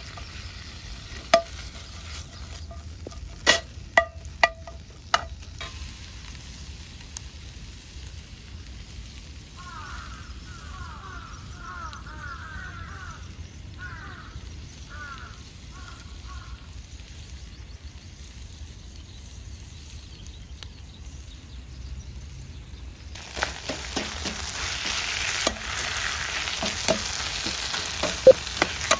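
Cooking over a campfire: a few sharp metal clinks of utensils on a pan, then about two-thirds of the way in a loud sizzle starts as food goes into the hot pan, with stirring clicks through it. A run of short falling chirps is heard in the quieter middle stretch.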